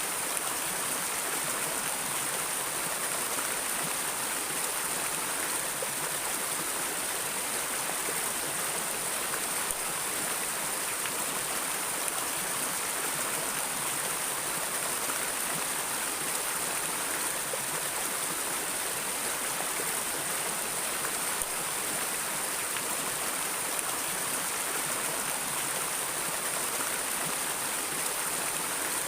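A stream of flowing water running steadily, a constant rushing hiss with no breaks.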